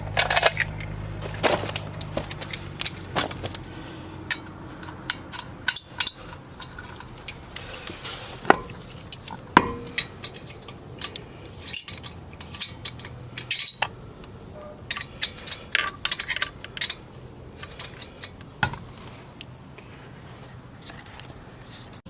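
Metal lug nuts and wheel hardware clinking and scraping as the wheel is fitted and the nuts are threaded onto the studs by hand, a string of sharp irregular clicks.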